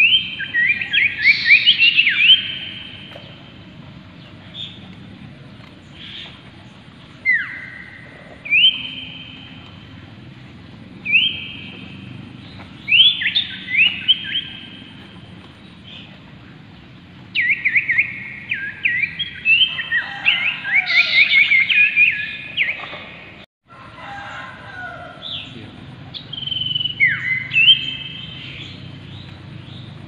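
Common iora song: clear whistled notes and rapid runs of sliding notes, in several bouts separated by short pauses.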